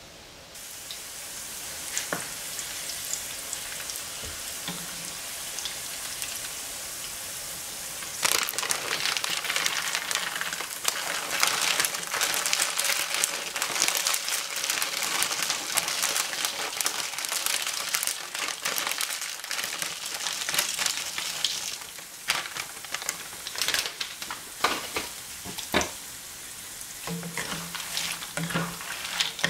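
Garlic sizzling in hot oil in a pan. Raw peanuts are poured in partway through, and the frying turns louder and crackling. Near the end a wooden spatula stirs the peanuts, with scattered clicks over a quieter sizzle.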